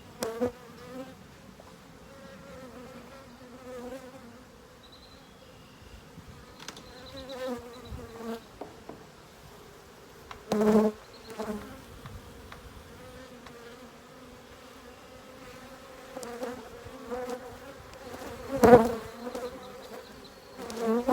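Honeybees buzzing around a disturbed, freshly opened hive: a steady hum that swells as bees fly close. Two loud knocks, about halfway through and near the end.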